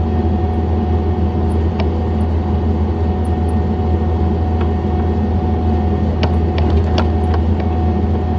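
John Deere 317 skid loader's engine running steadily, with a constant high whine over it. A few sharp clicks or knocks come about two seconds in and again several times near the end.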